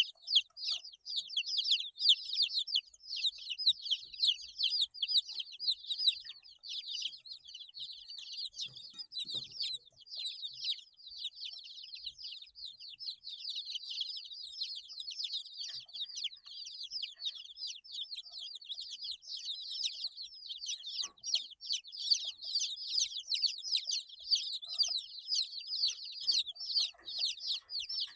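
A group of 8-day-old baby chicks peeping constantly, many short high chirps overlapping each other with no break.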